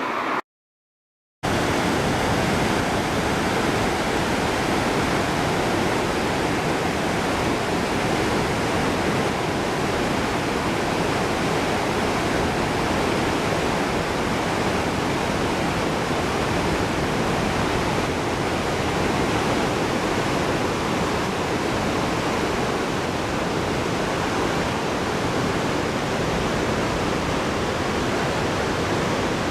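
Steady, loud rush of a fast-flowing river, an even unbroken noise, with a brief drop to silence for about a second just after the start.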